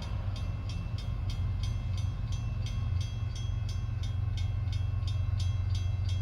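Steady low rumble of a CSX coal train's diesel locomotives, with a rapid ringing of about four strikes a second over it.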